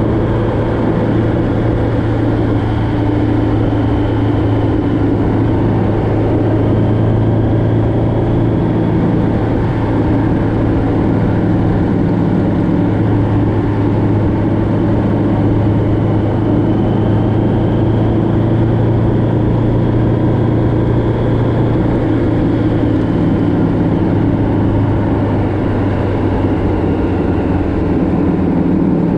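Motorcycle engine running steadily at cruising speed, with wind rushing over it.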